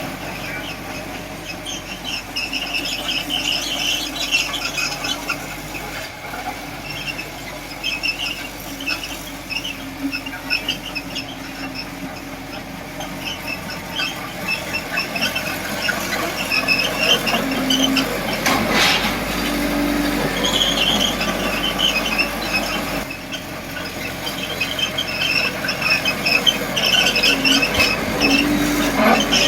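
Small crawler bulldozer (Komatsu D20P) at work: its steel tracks squeal and screech in repeated bursts over the steady run of the diesel engine.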